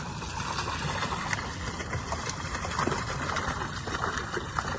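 River water rushing steadily, with scattered small sharp ticks through it.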